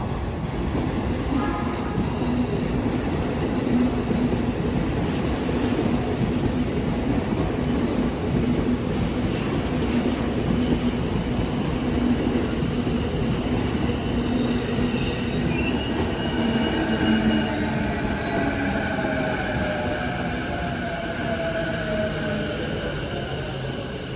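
JR East E233 series electric commuter train pulling into a platform and braking to a stop: steady rumble of wheels on the rails, with the motors' whine falling in pitch over the last several seconds as it slows.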